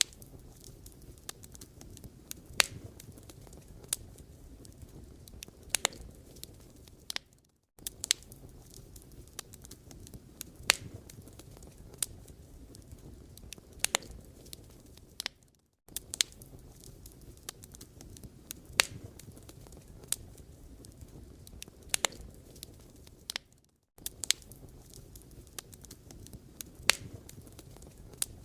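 Firewood burning, with a steady low rush of flame and frequent sharp crackles and pops. The sound breaks off briefly about every eight seconds, as a short recording looped.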